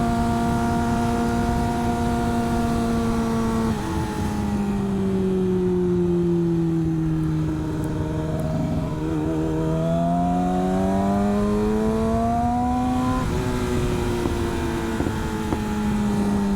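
Motorcycle engine running under way, with a steady rush of wind. Its pitch holds, steps down about four seconds in and sinks slowly, then climbs again and drops sharply once more about thirteen seconds in, as with gear changes.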